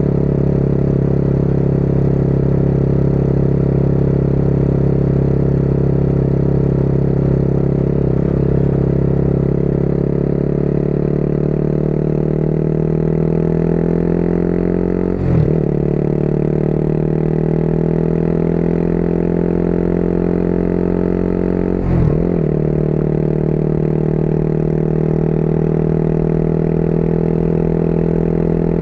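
Motorcycle engine running under way, with the revs climbing steadily as the bike accelerates. It shifts up twice, about halfway through and again some seven seconds later, each shift a brief break in the engine note.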